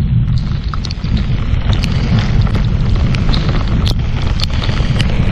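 Heavy thunderstorm rain pelting the boat and camera: a dense scatter of sharp drop ticks over a constant low rumble.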